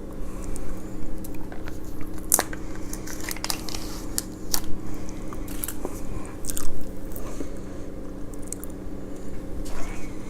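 Close-miked eating: biting into and chewing crunchy food, with irregular sharp crackles and crunches. A low steady hum runs underneath.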